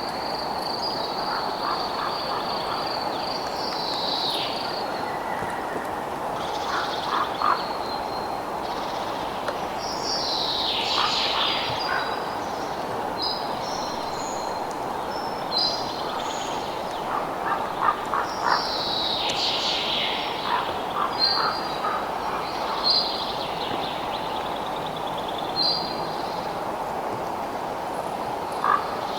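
Night nature ambience: a steady high insect trill that stops about four seconds in, over a constant hiss. Animal calls sweep downward every several seconds, with short clusters of chirps between them.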